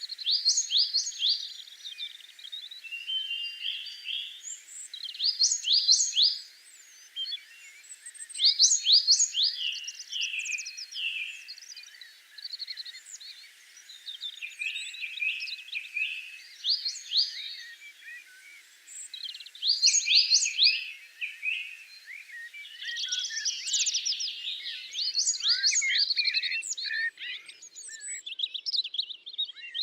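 Songbirds singing: short phrases of quick, high, falling notes repeated every few seconds. From about two-thirds of the way through, more birds overlap in a denser chorus.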